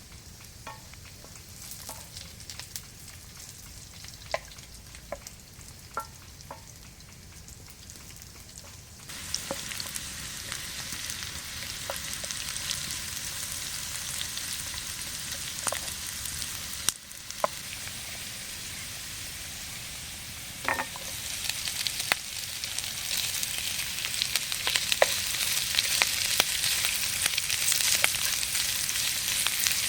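Food frying in a pan, with the sizzling starting suddenly about a third of the way in and getting louder again later. Scattered small crackles and pops come before it and run through it.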